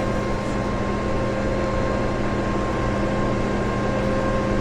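Steady mechanical hum with a few constant tones over a low rumble, unchanging throughout.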